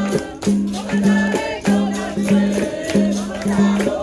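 Capoeira roda music: a berimbau sounds a repeating rhythm on a sustained low note, with shaker and tambourine strokes, likely the caxixi and pandeiro, and voices singing over it.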